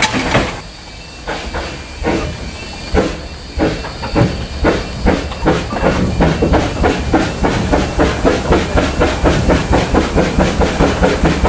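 Narrow-gauge 2-6-2T steam tank locomotive (Vale of Rheidol No. 8) pulling away, its exhaust beats starting slow and quickening steadily to about three or four a second, with steam hissing.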